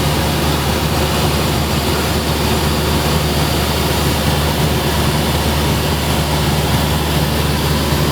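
Light propeller aircraft's piston engine and propeller droning steadily, heard inside the cabin, with a deep hum under a broad rush of noise.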